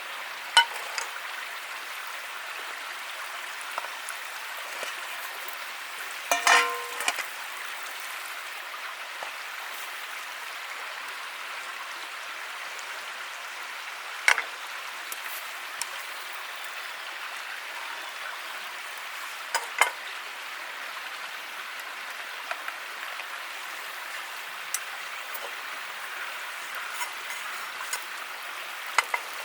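Wood campfire burning with a steady crackling hiss and a few sharp, loud pops from the burning wood, the biggest about six seconds in.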